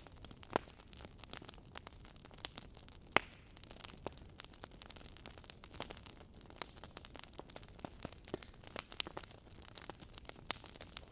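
Logs burning in a fireplace, crackling with irregular sharp pops and snaps over a low steady hiss; one louder pop about three seconds in.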